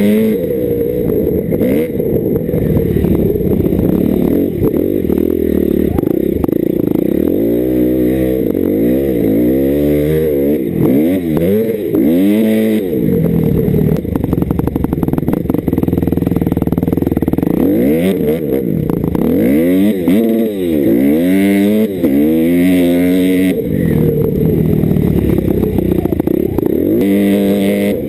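Dirt bike engine running under load, its pitch rising and falling over and over as the rider accelerates and eases off.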